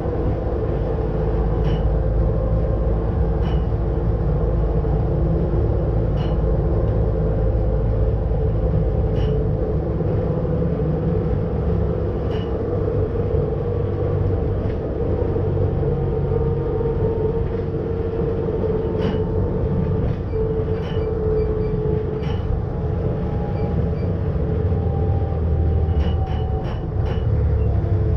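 Electric rack-railway train running, heard from the driver's cab: a steady low rumble with an even mechanical whine, and single sharp clicks from the track every two or three seconds. Near the end a quick run of clicks comes as the train crosses the points approaching the depot.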